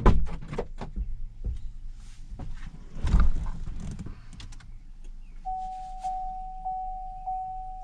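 Clicks and knocks of someone moving about in a car and closing it up, with a heavier thump about three seconds in. From about five and a half seconds a steady electronic tone starts, pulsing about one and a half times a second.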